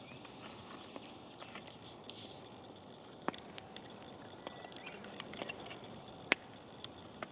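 Quiet knife-and-hand work on a bell pepper: scattered small clicks and taps over a faint outdoor background, with one sharper click about six seconds in.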